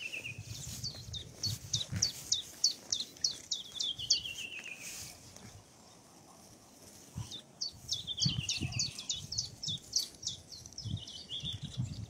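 A songbird singing two phrases of rapid, high, falling notes, each a few seconds long, the first starting about a second in and the second about seven seconds in. Low, uneven thuds of footsteps on dry ground run under the song.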